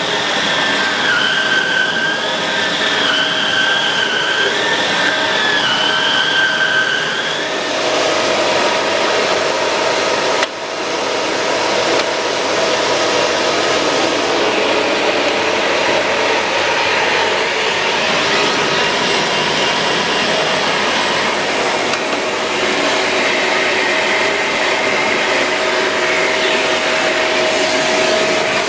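Shark Rotator Pro Lift-Away NV500 vacuum cleaner running steadily. For the first several seconds a whine wavers up and down in pitch, and about ten seconds in the sound dips briefly.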